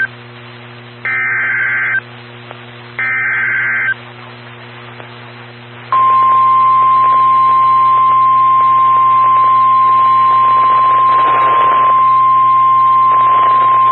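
NOAA Weather Radio emergency alert sequence. Short warbling data bursts of the SAME header sound twice, each about a second long and two seconds apart. About two seconds later the steady 1050 Hz warning alert tone starts and holds, signalling that a warning is about to be read. A steady low hum from the receiver runs underneath.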